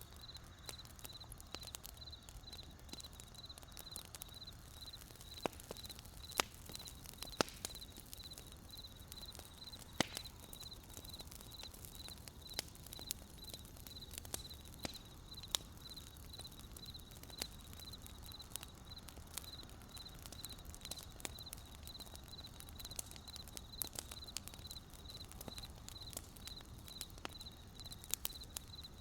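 Wood campfire crackling with scattered sharp pops, over a cricket chirping steadily at about two chirps a second.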